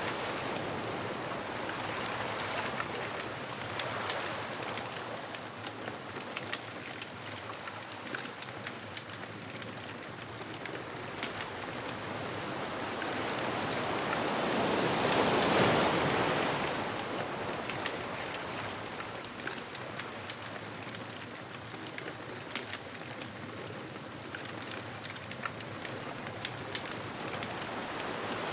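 Ocean waves washing on a beach, one wave swelling in and breaking about halfway through, over a constant fine crackling patter.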